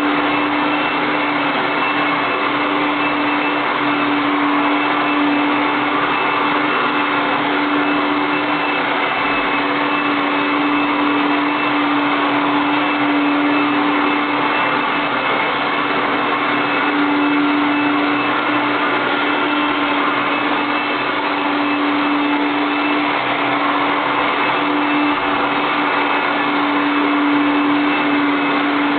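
Automatic (robot) vacuum cleaner running steadily: an even motor whir with a strong steady hum.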